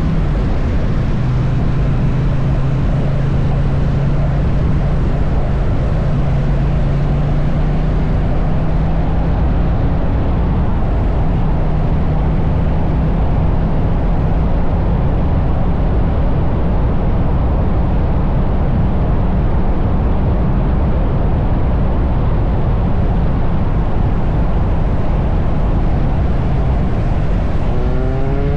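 Triumph Bonneville T100 parallel-twin motorcycle engine running steadily at highway cruising speed, under heavy wind rush on the microphone. Near the end the engine note rises in pitch as the bike speeds up.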